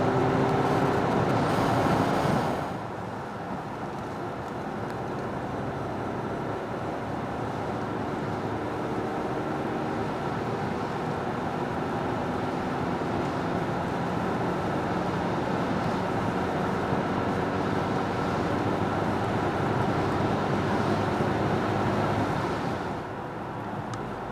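Peugeot 5008's 1.6 THP turbocharged four-cylinder petrol engine under full-throttle acceleration, heard inside the cabin. The fourth-gear pull ends about two and a half seconds in as the throttle is lifted. Then comes a fifth-gear pull from 80 to 120 km/h, the engine note rising slowly until the sound drops off again near the end.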